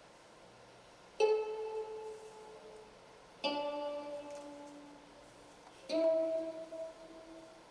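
Three single notes plucked on a string instrument, spaced about two seconds apart, each ringing out and fading slowly.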